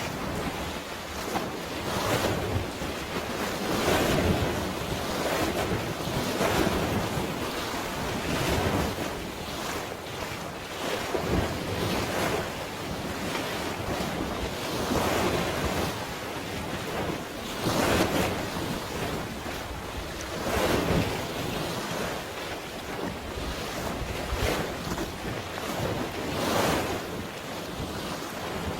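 Sea waves washing in and drawing back, swelling every two to three seconds, with wind buffeting the microphone.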